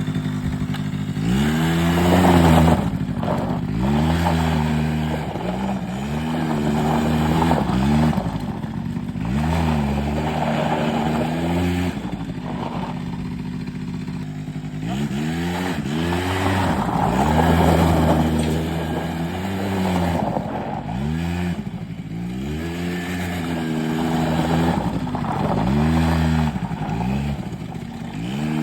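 Small 100cc quad engine revving up and down again and again, its pitch rising and falling every second or two, settling to a steadier low running for a few seconds around the middle.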